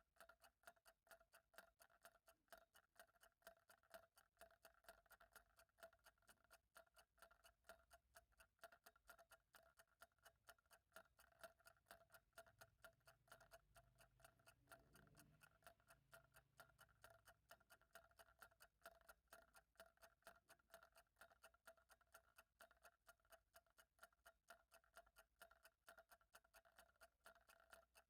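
Faint, steady, rapid ticking of a clock, even and unbroken. A faint low rumble rises and fades away about halfway through.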